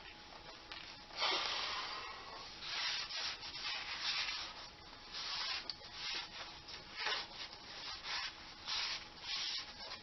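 A shop rag wiping and rubbing a part, in repeated rough strokes about one or two a second, with a longer, stronger stroke about a second in.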